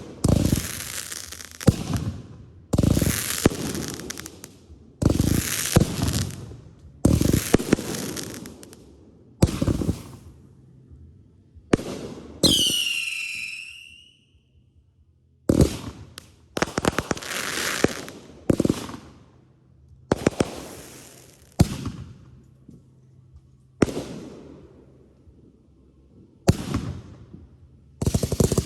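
Aerial fireworks bursting one after another, a loud bang about every two seconds, each trailing off in crackle. About twelve seconds in a whistle falls in pitch, and near the end the crackling becomes continuous.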